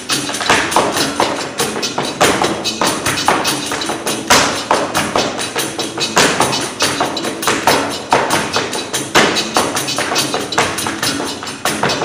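Rapid tap-dance footwork on a stage floor: a dense, continuous stream of sharp metal-tap clicks and heavier stamps, several a second.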